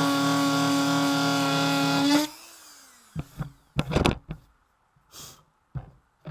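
Dremel rotary tool running with a steady high whine. About two seconds in it is switched off and spins down with a falling tone. A few knocks and handling clicks follow.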